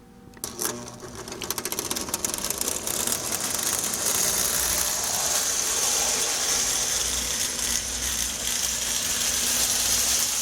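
Marx toy train locomotive's electric motor starting up and running, its wheels clattering on the track. The sound builds over the first few seconds and then runs steadily with a high whine. The motor is freshly rebuilt and runs really well.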